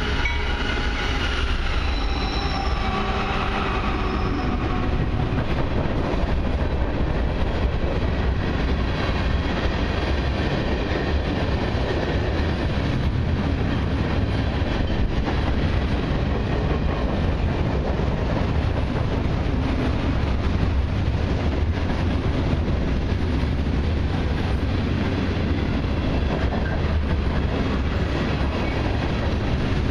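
A freight train passing close by. The lead GE diesel locomotives go by first, their engine tones dropping in pitch over the first few seconds. A long, steady rumble and clatter of tank cars and hopper cars rolling over the rails follows.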